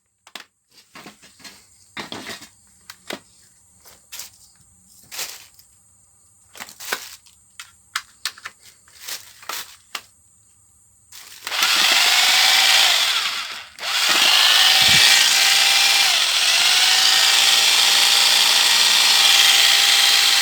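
Scattered clicks and knocks of the tool being handled, then a Total rotary hammer drill's motor starts and runs steadily at speed, cutting out briefly once before running on: the drill that would not run now working after repair.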